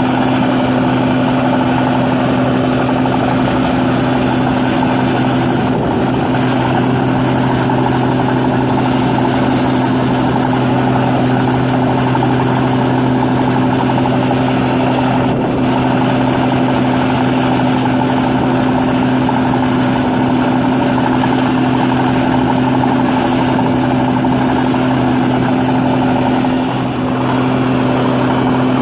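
New Holland 8060 combine harvester running steadily while harvesting paddy: a constant engine and machinery drone with a steady hum, dipping briefly near the end.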